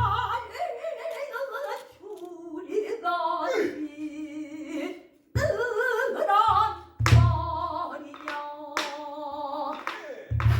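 Pansori singing: a long, melismatic sung phrase with heavy vibrato, accompanied by a buk barrel drum. The drum sounds in several sharp strokes with deep thuds, the loudest at the very start and about seven seconds in.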